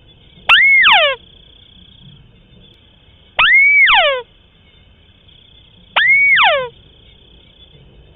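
White-browed crake calling three times, about two and a half seconds apart. Each call is a rising-and-falling note followed by a quick run of falling notes.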